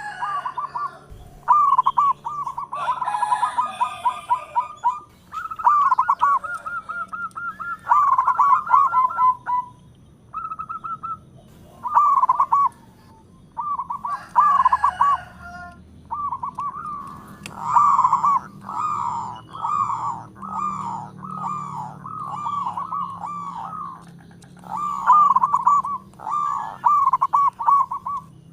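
Zebra dove (perkutut) cooing, phrase after phrase of rapid rhythmic coos with short pauses between them. Fainter high chirps from other birds sound above it in the second half.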